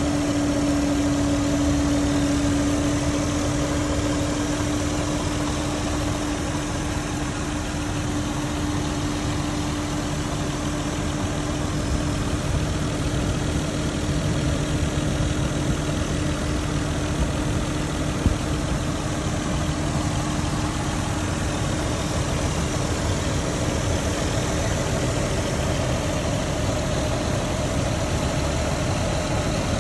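1994 Toyota Supra Turbo's 2JZ-GTE twin-turbo inline-six idling steadily, heard close up at the open engine bay. A steady whine rides on the idle and fades away about two-thirds of the way through.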